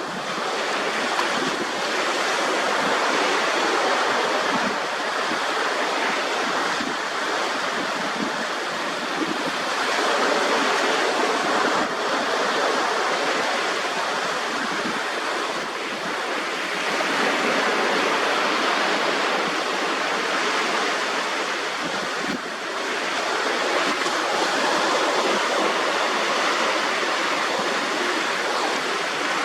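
Sea waves washing onto a sandy shore with the tide coming in: a steady wash that swells and eases every several seconds.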